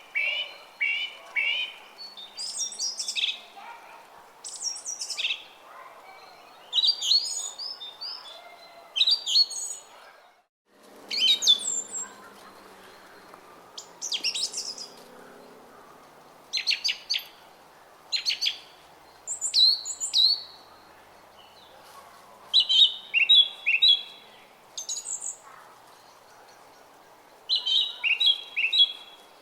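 Songbirds chirping and twittering in short repeated phrases over the steady babble of a small stream. The sound drops out almost completely for a moment about ten seconds in.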